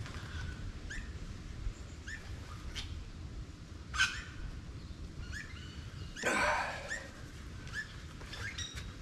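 Wild birds calling: scattered short chirps and a few sharp, quick whistle-like sweeps, with one louder, longer, harsh sound about six seconds in, over a low steady background rumble.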